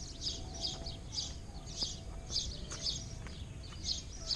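Birds chirping loudly: a steady run of short, high chirps, about two a second.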